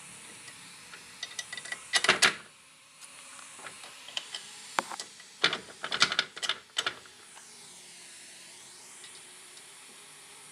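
Sharp metallic clicks and clatter, loudest about two seconds in and in a quick cluster around six seconds, then a steady faint hiss.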